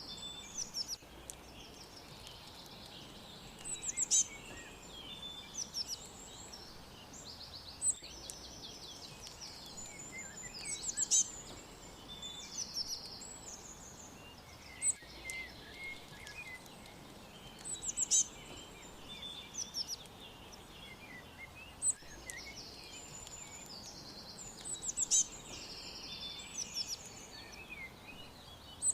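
Several birds chirping and singing together in high chirps and quick trills, with a louder phrase standing out about every three to four seconds, over a faint steady hiss.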